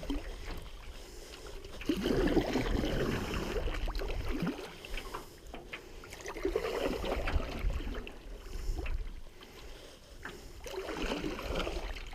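Canoe paddle strokes swishing through pond water: three surges, one about every four and a half seconds. Wind rumbles on the microphone underneath.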